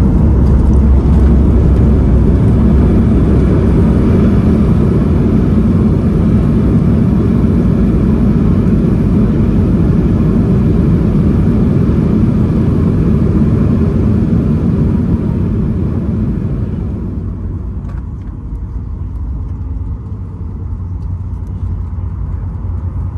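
Boeing 737 MAX 8 cabin noise during the landing rollout: a loud rushing roar with a deep rumble. About 16 seconds in, the hiss and roar ease off and the noise settles to a lower, steadier rumble as the airliner slows.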